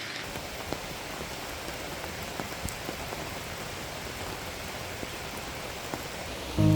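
Steady rain falling, with a few louder single drops now and then. Music begins right at the end.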